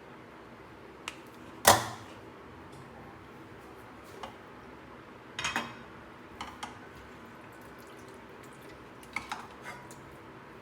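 Kitchen utensils knocking and clinking against cookware and dishes, with a loud clank a little under two seconds in and lighter clinks after it, over the steady hum of a noisy kitchen exhaust fan.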